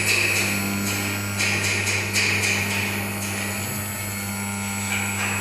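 CNC wood router with an air-cooled spindle running and cutting, a steady hum under a rapid, irregular run of sharp clicks and knocks that thins out after about three seconds.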